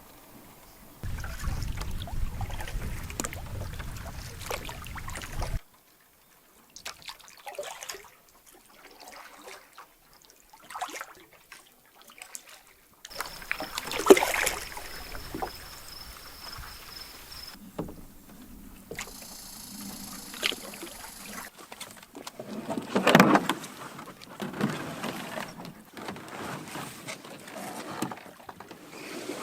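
Canoeing sounds in a series of short clips: paddle strokes and water around the canoe, with scattered knocks. There is a stretch of low rumble in the first few seconds and a sharp loud strike a little past the middle.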